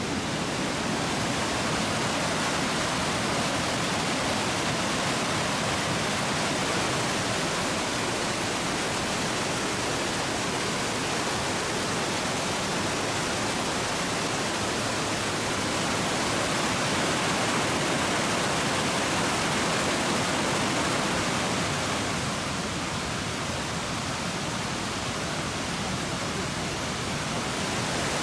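Waterfall rushing: a steady, dense wash of falling water with no breaks.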